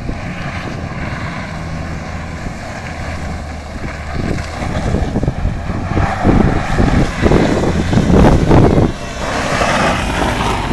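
Dodge Neon's four-cylinder engine revving hard as the front-wheel-drive car drifts around in circles, getting louder and more uneven from about four seconds in, then dropping back a little near the end.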